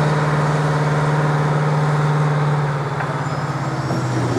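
An engine running with a steady low drone, which drops in level about two-thirds of the way through.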